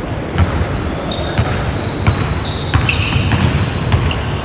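Basketball dribbled on a hardwood gym court, a sharp bounce about every half second or so, with high squeaks of sneakers on the floor and a steady low hubbub of the gym underneath.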